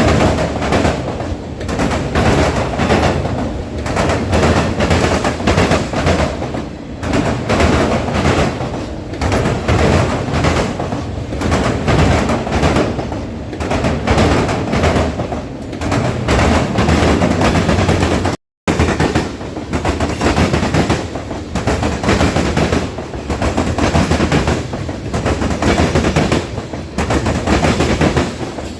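Train passing close, its wheels clattering and banging over the rails in a dense, continuous rattle. The sound cuts out for a split second about two-thirds of the way through.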